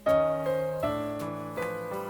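Background piano music: a slow melody of single notes and chords, each struck and fading away.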